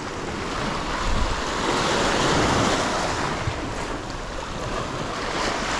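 Sea surf washing against a rocky shore, with wind buffeting the microphone. A wave swells about a second in and eases off after about three seconds.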